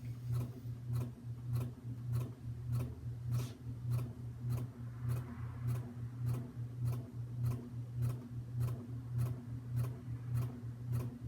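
SMC Park Avenue III ceiling fan running on medium speed: a steady motor hum that pulses in time with an even ticking, about three ticks a second, as the blades turn with a slight wobble.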